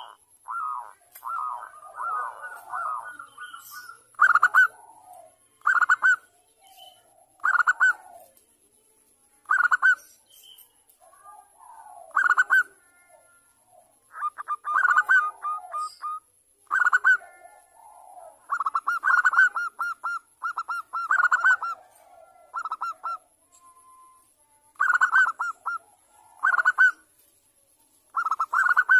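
Zebra doves cooing: repeated short bursts of rapid staccato cooing notes, about every one to two seconds, with longer, denser runs in the middle and toward the end.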